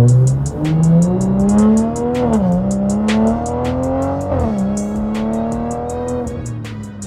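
Straight-piped, catless BMW 540i B58 turbo inline-six accelerating hard, its exhaust note rising through the revs with two quick upshifts about two and a half and four and a half seconds in, then easing off near the end. Music plays along with it.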